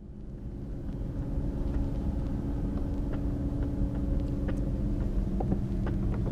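Steady low engine drone with a few steady pitched tones, fading in over the first second, with scattered light clicks and ticks over it.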